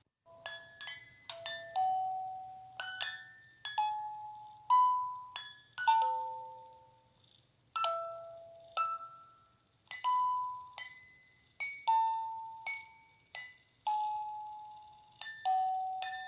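A slow lullaby melody of bell-like chime notes, each struck and ringing away, beginning just after the start, over a faint low hum.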